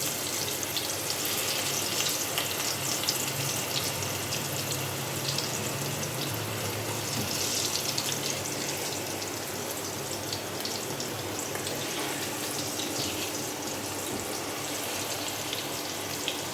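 Potatoes sizzling as they fry in hot oil in a pan, nearly done: a steady hiss with many small crackles.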